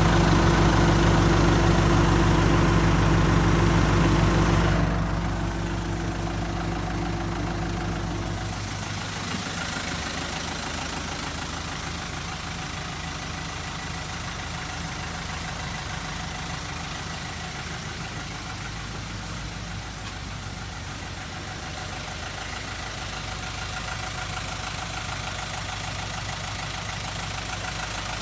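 Mitsubishi Rosa minibus's 4D35 four-cylinder diesel engine idling with a steady diesel clatter, louder for the first five seconds, then dropping and settling to a quieter idle.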